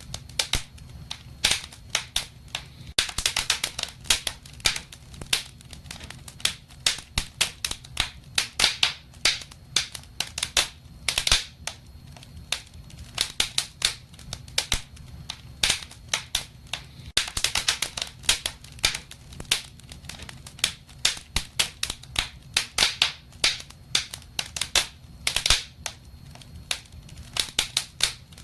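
Wood fire in a fireplace crackling: dense, irregular snaps and pops over a steady low rumble.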